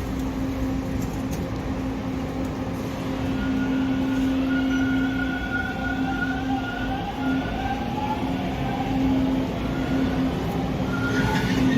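Toronto subway train moving through a station: a steady rumble and hum, with a faint electric motor whine that shifts in pitch through the middle.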